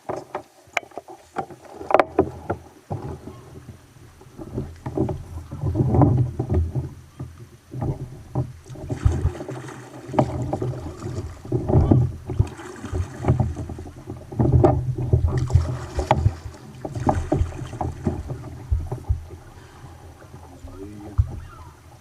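Kayak being paddled on the sea: water swishing and splashing with repeated paddle strokes, one every one to two seconds, with small knocks between them.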